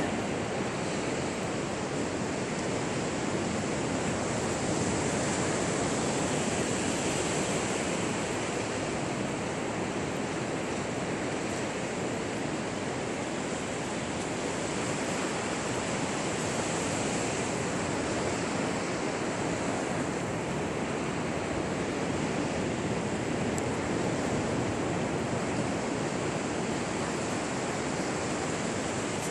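Ocean surf washing onto a beach, a steady rush of waves that swells and eases every several seconds.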